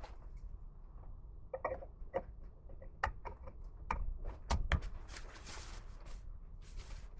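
Irregular small clicks and knocks of tools and metal parts being handled on a workbench, with two louder knocks a little past the middle and a few short rubbing, brushing noises.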